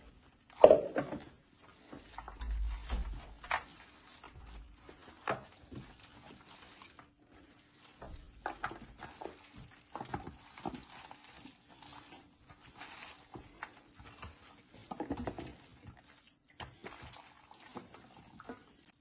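Irregular light knocks and clicks of objects being handled, with a low thump about two to three seconds in.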